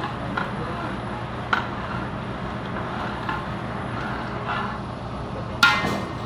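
Metal cookware clinking lightly a couple of times, then a louder metal clatter near the end, over a steady background hum.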